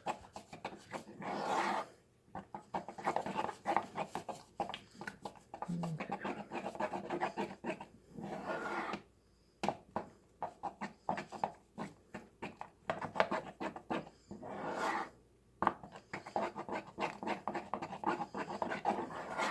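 A spoon stirring and scraping melting peanut butter and shortening around a pan, in quick repeated strokes with a few short pauses.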